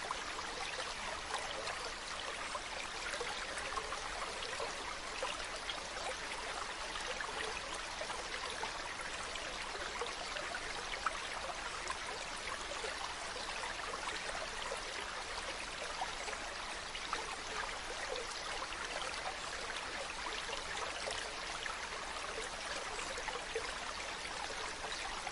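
Mountain stream running steadily over rocks, with a constant splashing rush and fine trickling.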